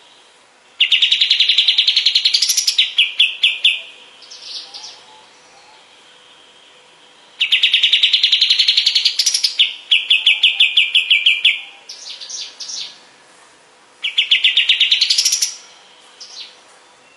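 Kapas tembak bird singing: three loud phrases of rapid repeated notes, each climbing in pitch toward its end and followed by a few shorter, fainter notes.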